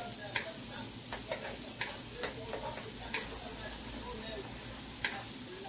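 Garlic sizzling in melted butter in a wok, with a wooden spatula stirring and knocking against the pan in irregular clicks.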